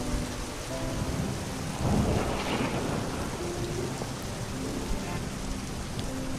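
Steady rain hissing, with a roll of thunder swelling about two seconds in and fading over the next second or so.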